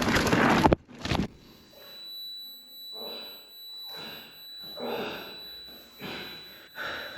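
Wind and trail noise from riding a mountain bike, cutting off abruptly under a second in; then a rider breathing heavily, about one breath a second.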